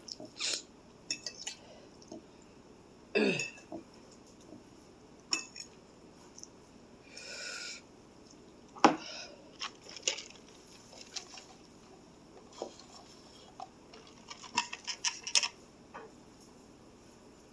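Utensils clinking and tapping against a noodle bowl during eating, in scattered short taps with quiet stretches between; the sharpest clink comes about nine seconds in.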